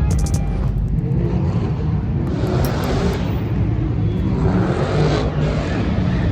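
Car engines running with a steady low rumble, with two swells of noise about three and five seconds in as cars drive past.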